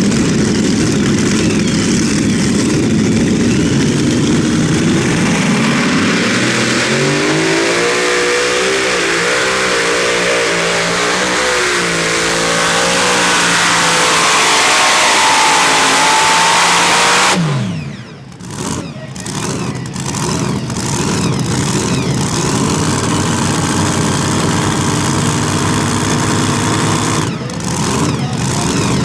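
A pulling tractor's engine running at full throttle, its pitch wavering and climbing. About two-thirds of the way through the throttle is cut and the pitch falls sharply, leaving quieter engine running.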